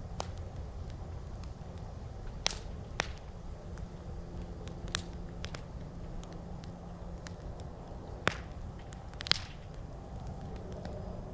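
Wood campfire crackling: irregular sharp pops over a steady low rumble, with the loudest cracks about two and a half, eight and nine seconds in.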